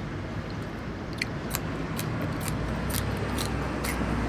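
A person chewing food close to the microphone, with sharp crunches or mouth clicks about twice a second over a steady low hum.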